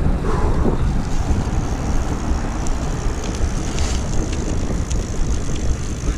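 Wind rushing over the microphone on a fast night ride on a road bike: a steady low rumble, with the tyres running on pavement and a few light ticks from the bike.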